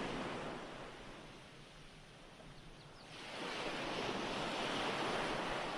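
Recorded ocean surf: a wave's wash dies down, then a new wave breaks and washes in about three seconds in.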